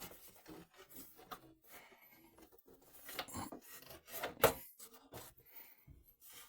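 Needle-nose pliers scraping, rubbing and clicking against a small metal crimp terminal as the broken wire is worked out of it, in irregular bursts with one sharper click about four and a half seconds in.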